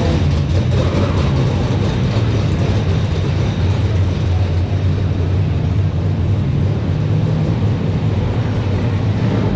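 Car engines running in a concrete multi-storey car park, a steady low rumble with no break.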